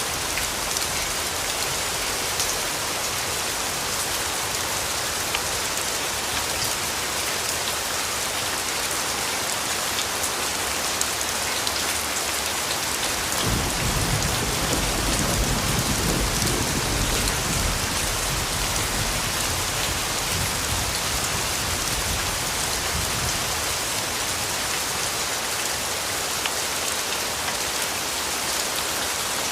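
Steady rain falling, an even hiss with scattered drop ticks. About halfway through, a low rumble of distant thunder starts suddenly and dies away over several seconds.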